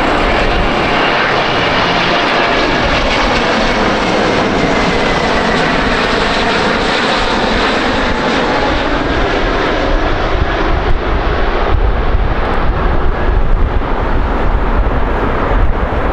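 A jet airliner passes close by with loud, steady engine noise, its tones sliding down in pitch. In the second half a deep rumble grows and the loudness starts to fluctuate.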